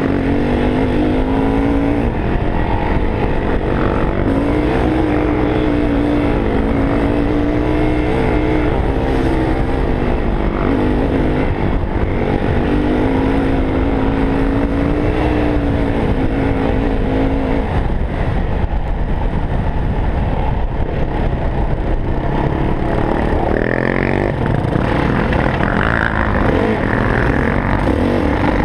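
Four-stroke dirt bike engine running under way, its pitch rising and falling with throttle and gear changes; about two thirds of the way through the engine note turns rougher and less even.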